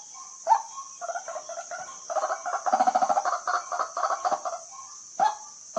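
White-breasted waterhen calling: loud harsh croaks repeated about every half second, breaking about a second in into a fast chattering run that lasts until near the end, then single croaks again, over a steady high hiss.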